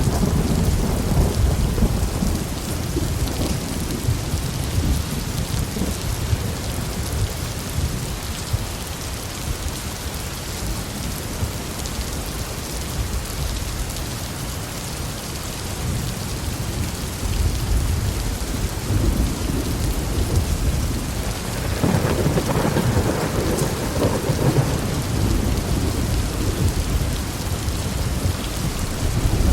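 Heavy rain falling steadily with rolling thunder rumbling underneath; the rumble eases in the middle and swells again in the last third.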